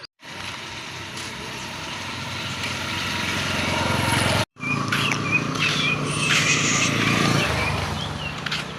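A motor vehicle's engine running and passing by, growing louder towards the middle and fading near the end, with the sound briefly cutting out about halfway. Short high chirps come in over it in the second half.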